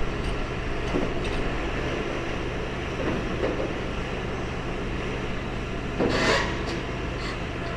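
Diesel engine of a demolition excavator running steadily at work, with a brief louder burst of noise about six seconds in.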